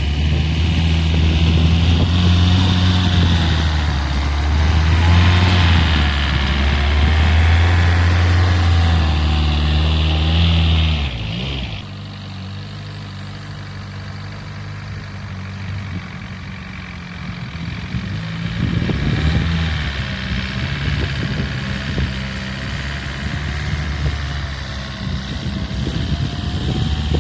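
Homemade tractor's engine running steadily and loudly. About eleven seconds in, it drops in level and pitch, then runs lower with its speed rising and falling.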